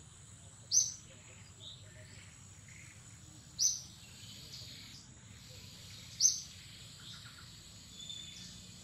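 Outdoor forest ambience: a bird gives short, sharp, high chirps three times, a few seconds apart, with a few fainter calls between. A steady high-pitched whine runs underneath.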